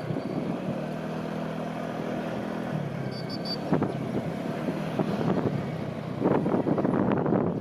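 Road vehicle engine running steadily on the highway, with three short high beeps about three seconds in and a louder rushing, buffeting noise near the end.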